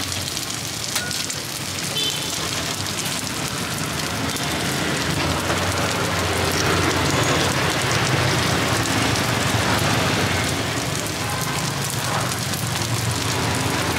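Takoyaki batter sizzling in a hot, oiled cast-iron takoyaki pan: a steady crackling hiss, with a low hum beneath.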